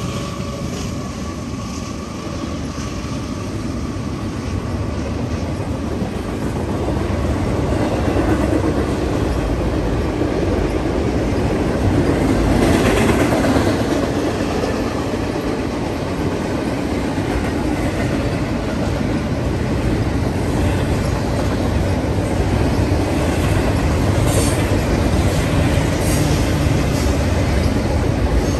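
Double-stack intermodal freight train rolling past: a steady rumble of steel wheels on rail with clickety-clack over the joints. A humming tone from the departing CSX diesel locomotives fades in the first couple of seconds, and brief high wheel squeals come near the end.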